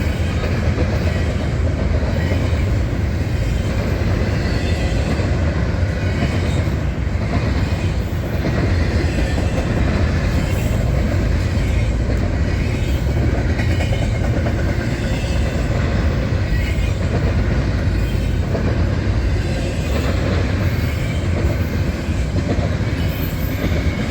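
Freight train cars rolling past at close range: a steady, loud rolling noise, heaviest in the deep low end.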